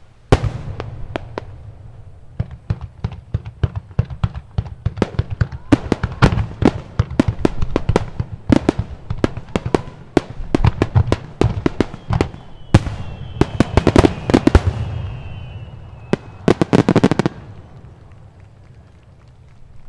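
A fireworks barrage: a dense, rapid string of shell launches and bursts banging one after another, with a faint falling whistle midway. A tight cluster of rapid bangs comes near the end before the noise dies away.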